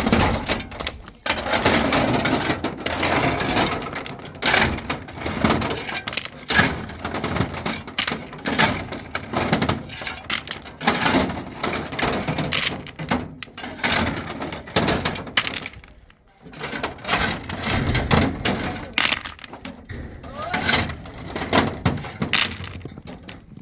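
Hard objects clattering and knocking against one another in quick, irregular runs.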